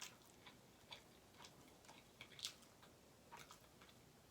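Quiet, close-up eating sounds: soft, irregular clicks of a mouth chewing food, about two or three a second.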